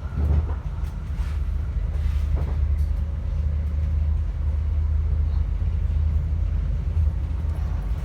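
Train running, a steady low rumble with a few faint knocks and clicks from the wheels and carriage.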